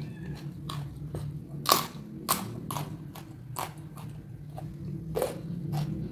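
A person chewing and biting into raw food close to the microphone: irregular crunches about two a second, the loudest a sharp crunch nearly two seconds in, over a steady low hum.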